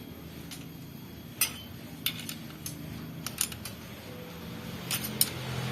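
Light metallic clicks and taps of hand tools on the valve gear of a diesel engine while the valve clearance is set with a feeler gauge, about a dozen scattered clinks.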